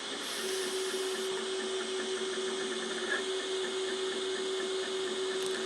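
Two Trees Sapphire Plus CoreXY 3D printer running a print: the stepper motors give a steady hum that sets in about half a second in, with faint rapid ticking from the moving print head.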